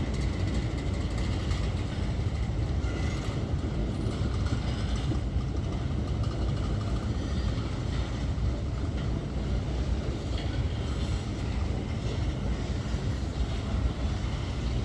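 Empty freight train of grain hopper wagons rolling past with a steady low rumble from its wheels on the rails.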